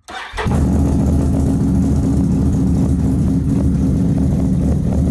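Can-Am Renegade ATV engine coming in suddenly and then running steadily, just after a Dynojet Power Commander 6 fuel controller has been fitted.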